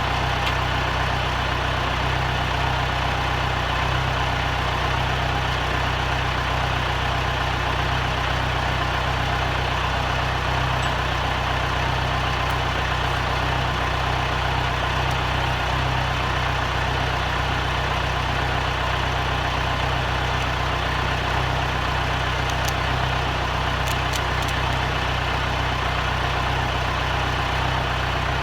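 Steady, unchanging mechanical hum like an engine idling, with an even hiss over it.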